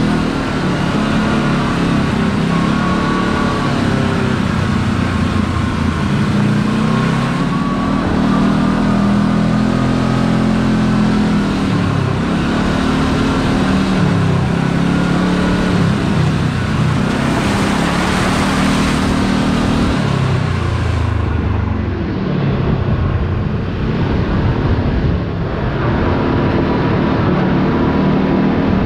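Side-by-side UTV engine running as it drives along, its pitch rising and falling as it speeds up and slows. A brief rush of noise comes about eighteen seconds in.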